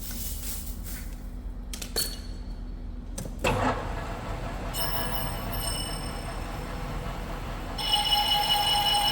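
Metal lathe turning the outside diameter of a steel plate with a ceramic insert through a hard spot in the steel. After a few light clicks the cut starts about three and a half seconds in as a steady ringing whine of several tones, which grows louder and shriller near the end.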